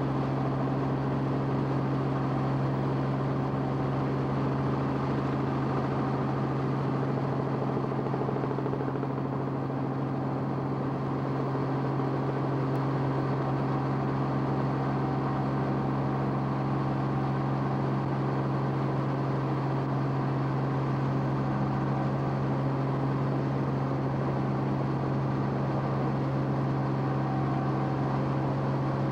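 Steady engine drone of an aircraft heard from inside the cabin, one constant deep hum with a stack of even overtones that never changes pitch.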